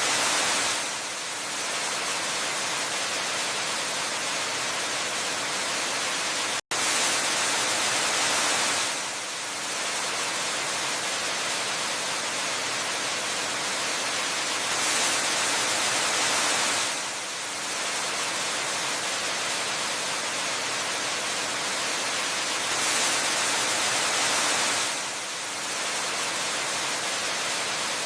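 Waterfall: steady rushing of falling water, swelling a little louder and brighter about every eight seconds. A split-second break in the sound comes about a quarter of the way in.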